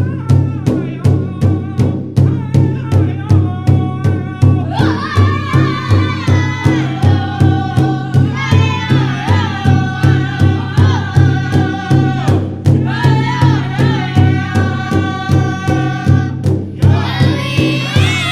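Powwow drum group: a large drum struck in a steady fast beat, about three strokes a second, with voices singing high and wavering in unison over it. The singing breaks off briefly twice, near the middle and again a few seconds before the end, while the drum keeps going.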